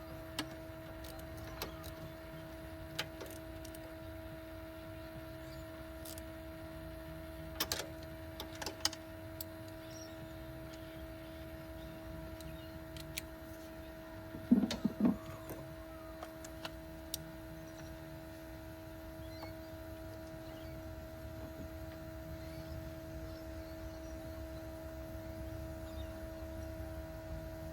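A steady machine hum holding two even tones, with scattered light clicks and a short cluster of louder knocks about halfway through.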